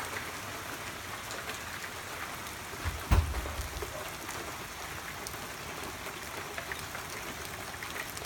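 Heavy rain pouring down, a steady hiss with scattered drop ticks. A single low thump about three seconds in.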